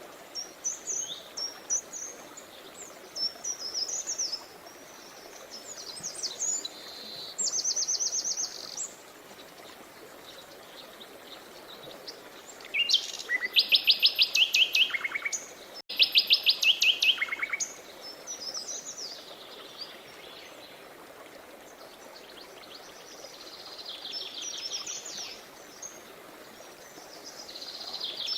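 Several songbirds singing over the steady rush of a river: scattered chirps and warbled phrases, with rapid trilled runs of repeated notes that are loudest about halfway through. The sound drops out for an instant in the middle of those trills.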